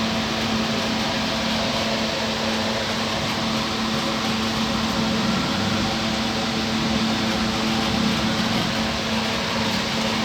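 Small electric motor, likely from a homemade model tractor's drive or smoke unit, running steadily. It gives an even hum with a hiss over it.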